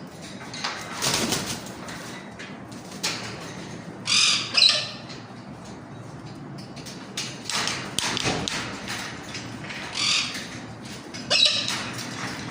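Galah cockatoo making a series of short, harsh bursts of sound, wing flaps and rasping squawks, every second or two, the loudest about four seconds in.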